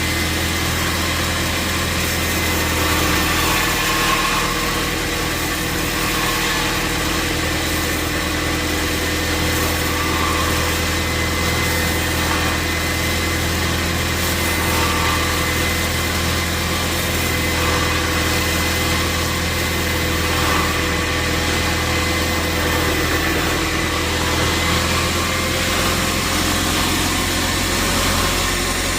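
Sawmill machinery running steadily: a constant motor drone with a low hum and a couple of steady whining tones above it, unchanging throughout.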